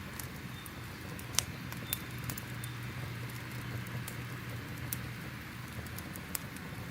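Crackling fire: irregular sharp pops and snaps, a few louder ones, over a steady hiss and a low, even rumble.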